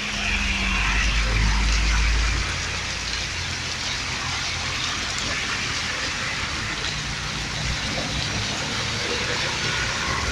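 Steady rain falling, a continuous even hiss. A low rumble runs under it for the first two seconds or so, then fades.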